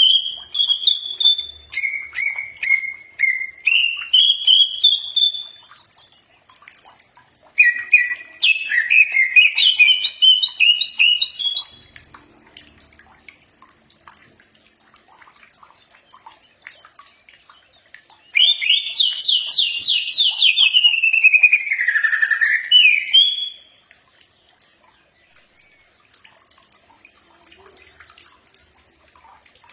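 Cucak ijo (green leafbird) singing: three phrases of rapid whistled notes that glide up and down, each a few seconds long, with pauses of several seconds between them.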